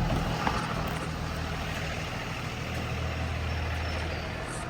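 2020 Blue Bird Vision school bus engine idling steadily with a low, even hum, heard from inside the bus.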